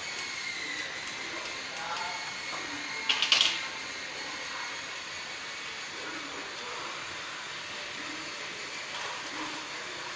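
Steady hissing background hum, with a short clatter of sharp clicks about three seconds in.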